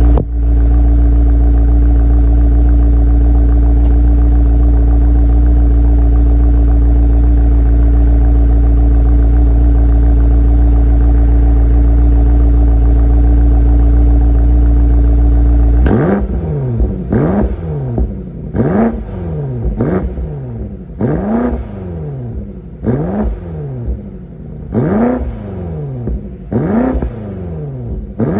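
BMW X6 M Competition's twin-turbo V8 exhaust, recorded close at the tailpipe, running at a steady engine speed. About sixteen seconds in it switches to a string of short throttle blips, each revving up and falling back, roughly one every one to two seconds.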